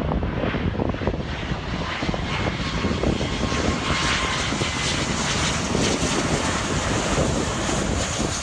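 Large jet airliner on landing approach, its engines rumbling steadily. The noise grows brighter about four seconds in, with a thin high whine over it.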